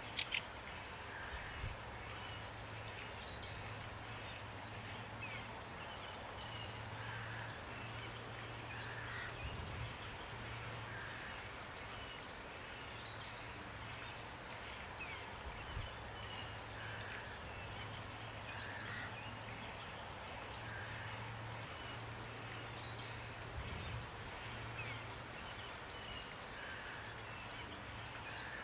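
Steady hiss of rain, with a songbird repeating a quick, high twittering phrase of falling notes every few seconds and softer single chirps in between. A low hum comes and goes under it.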